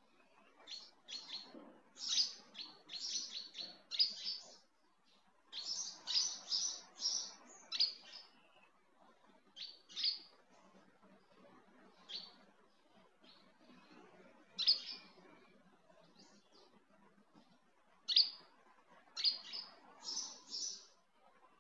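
Small birds chirping in quick runs of short high notes, with pauses of a second or more between the runs.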